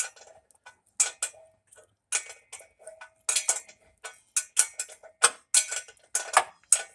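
Hand ratchet wrench clicking on a bolt, in short bursts of sharp clicks as the handle is swung back; the clicks are sparse at first and come quicker and closer together from about four seconds in.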